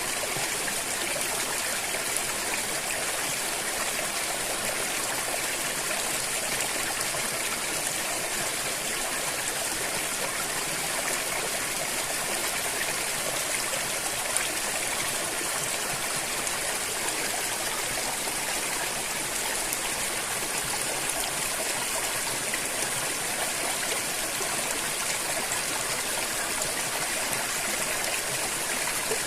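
River water flowing over rocks: a steady, unbroken rush with trickling.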